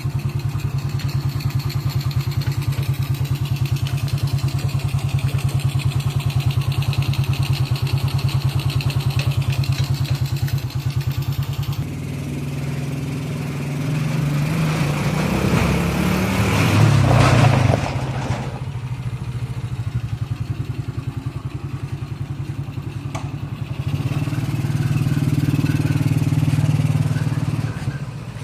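Small engine of a homebuilt mini truck running steadily. About halfway through it speeds up, the sound rising in pitch to a loud peak, then falls back. It picks up again near the end.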